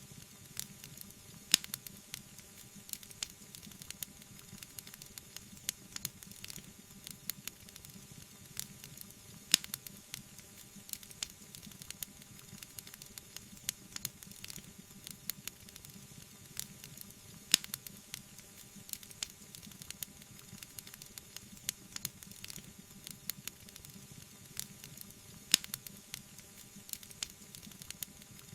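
Wood fire burning in a fireplace: a steady soft hiss with frequent small crackles and snaps, and a few sharp, louder pops about every eight seconds.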